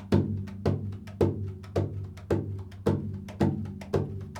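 Improvised music on a percussion instrument struck in a steady beat about twice a second. Each stroke leaves a low ringing tone, with lighter taps in between.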